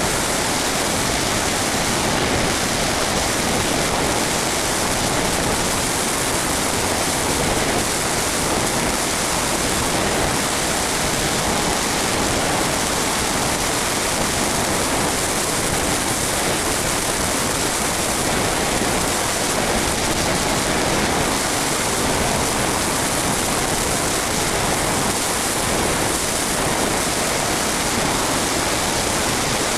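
Steady rushing wind noise over the microphone of a camera riding on a flying RC model plane, with no motor tone audible.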